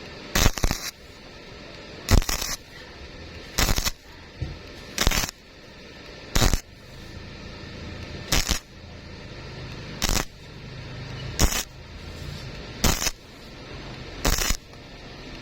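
Stick-welding arc struck and broken in short regular bursts: about ten sharp crackling spurts, one roughly every second and a half, each lasting a fraction of a second, as the rod is welded in an intermittent stitch.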